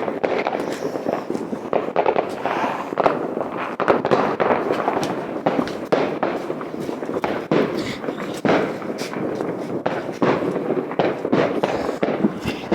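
Many fireworks going off at once: a dense, continuous barrage of bangs and crackling pops with no break.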